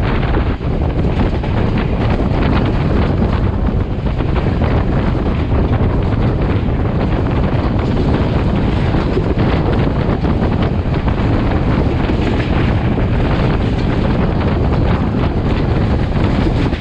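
Sri Lankan passenger train running at speed, heard from an open door or window: a steady rumble of the carriages on the track, with strong wind buffeting the microphone.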